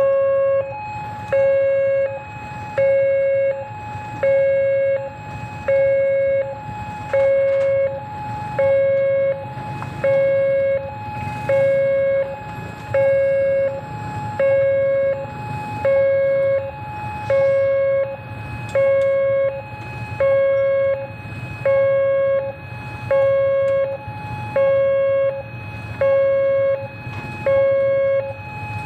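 Railway level-crossing warning alarm sounding as a train approaches: an electronic signal alternating steadily between two tones, about one tone a second, over a low rumble.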